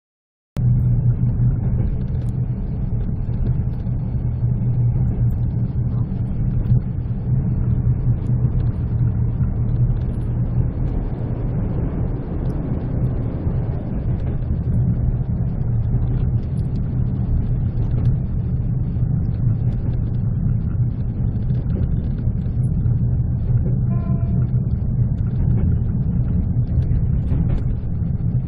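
Steady low rumble of a passenger train running along the track, heard from inside the coach.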